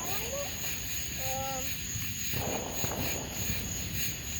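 Steady high-pitched chirring of night insects, crickets or katydids, with faint distant voices.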